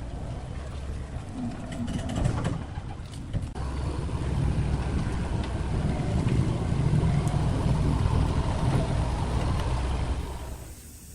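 A large engine running with a low, steady rumble and a few knocks, dropping away about ten seconds in.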